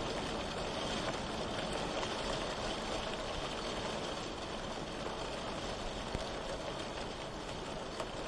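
Steady rain falling, an even hiss with a couple of brief ticks from single drops.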